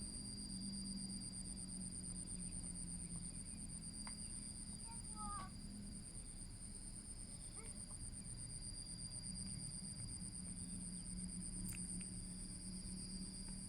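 Steady high-pitched insect trilling in two constant tones, over a low steady hum, with a few brief chirping calls about five seconds in.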